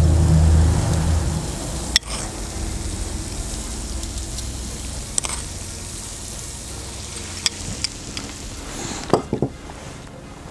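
Chicken, onion and sweet pepper sizzling as they fry in oil in a kazan, with a few light clicks and a low rumble during the first second or so.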